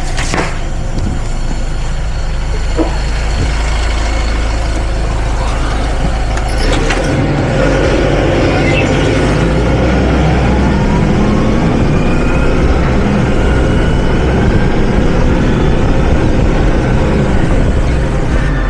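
Hyster H100FT forklift running steadily while working a load. Its sound changes about a third of the way in, and a rising whine builds from about halfway.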